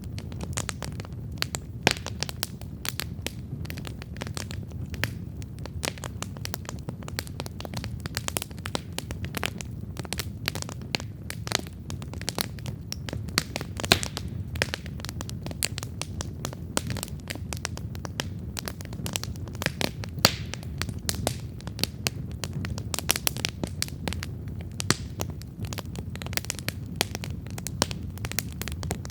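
Wood campfire burning with dense, irregular crackling and snapping over a steady low rumble of the flames, with an occasional louder pop.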